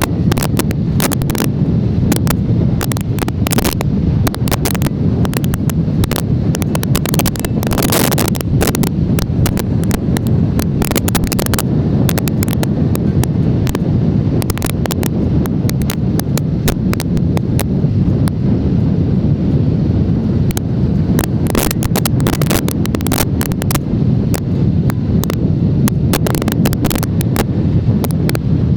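Strong wind buffeting the microphone, likely a camera riding on a moving motorcycle: a loud, steady low rumble with frequent sharp crackles all through.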